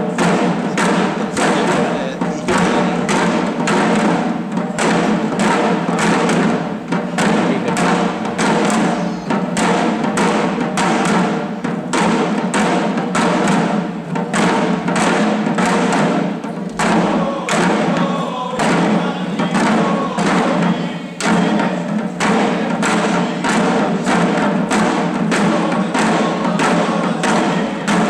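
Deer-dance drums worn and beaten by shishi odori dancers, a fast steady beat of about three strokes a second, with voices chanting the dance song for a few seconds midway.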